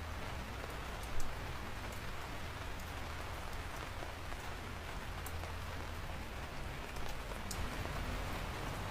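Steady rainfall, an even hiss of drops on surfaces, with scattered sharper individual drips and one louder drop about a second in.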